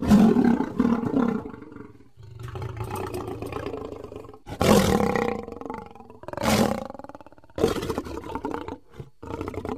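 Lion roaring: a series of separate loud roars, the loudest right at the start and about five seconds in, with lower rumbling between them.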